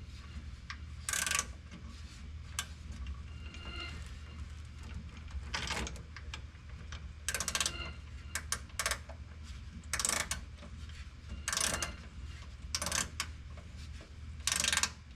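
Ratchet wrench cranking a bolt: short ratcheting strokes, about eight of them at irregular spacing, over a low steady hum.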